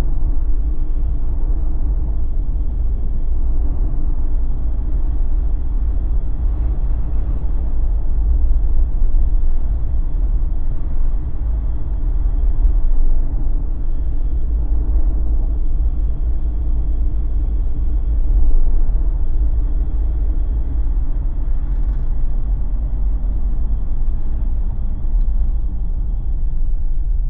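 Jeep driving along a winter highway: steady low road rumble of tyres and engine.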